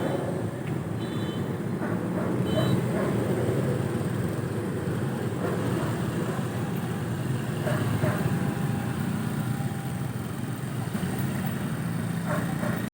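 Motor vehicle engines running steadily, with two short high beeps about a second and two and a half seconds in.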